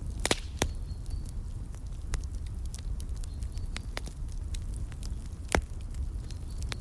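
Wood fire crackling in a fireplace: a steady low rumble of the flames with sharp pops at irregular intervals, the loudest about halfway through the second half.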